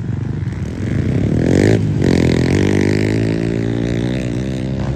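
A motor vehicle accelerating: a pitched motor drone that climbs sharply just before two seconds in, after a brief break, then holds fairly steady.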